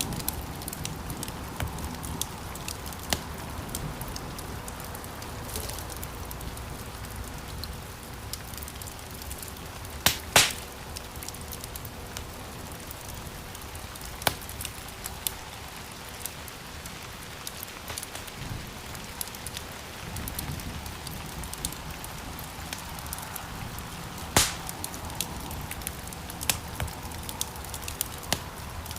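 Wood fire burning in a stone fireplace: a steady hiss with constant small crackles, and two loud pops of burning logs, one about ten seconds in and one near the end.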